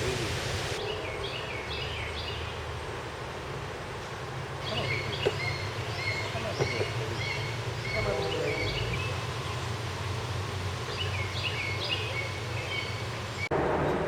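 A small songbird singing repeated phrases of quick high chirping notes in three bouts, over steady outdoor background noise.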